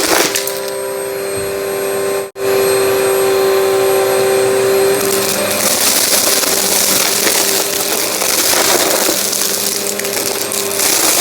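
Vacuum cleaner running with a steady motor whine, crackling as it sucks up crunchy debris. The sound cuts out for an instant a little over two seconds in.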